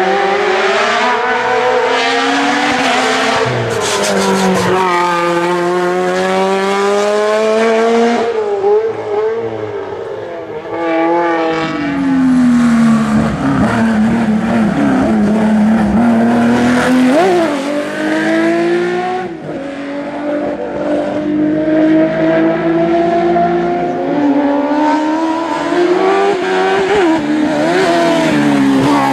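A hillclimb racing car's engine at high revs, its pitch climbing and then dropping sharply again and again through gear changes and slowing for corners, with a couple of quick sharp throttle blips.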